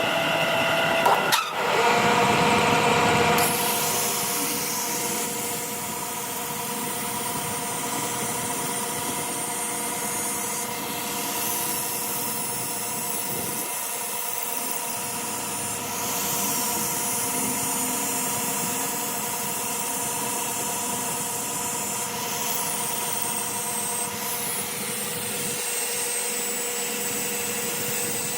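A workshop machine running steadily with a constant hum, mixed with rubbing and scraping from tool work. There is a sharp knock about a second in.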